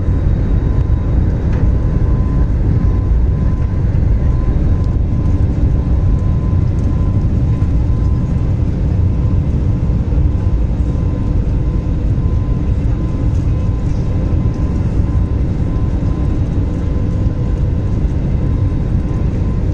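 Airliner cabin noise during take-off: the jet engines' deep, steady rumble, with a thin steady whine above it.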